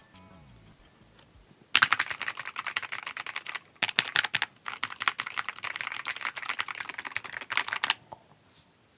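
Fast typing on a Keychron Q6 HE keyboard with magnetic Hall effect switches: a dense run of rapid keystrokes that starts about two seconds in, breaks off twice briefly, and stops about a second before the end.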